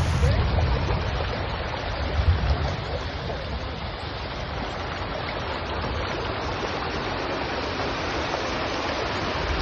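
Water rushing steadily down a rain-fed waterfall, an even hiss, with heavier low rumbling in the first few seconds.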